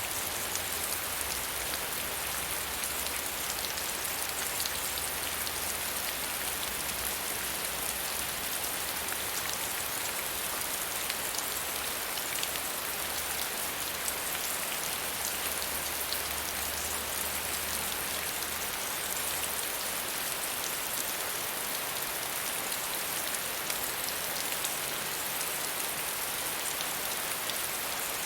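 Steady gentle rain falling, a continuous hiss of fine drops pattering on a surface, with many small individual drop ticks.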